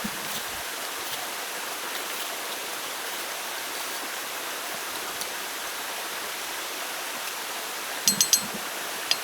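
Steady rushing of running water, like a forest stream. Near the end comes a quick run of about four sharp, high ringing clicks, louder than the water.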